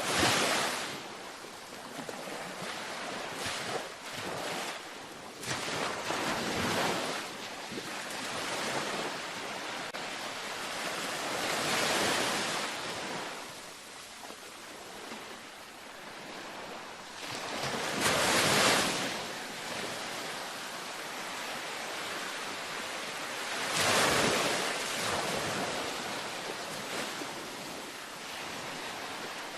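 Gentle ocean waves breaking and washing up a beach, a steady surf hiss with a wave swelling and receding every six seconds or so.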